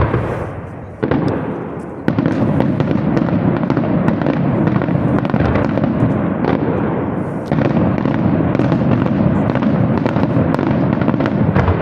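Aerial fireworks display: a sharp bang right at the start and another about a second in, then from about two seconds on a dense, continuous barrage of shell bursts and crackling.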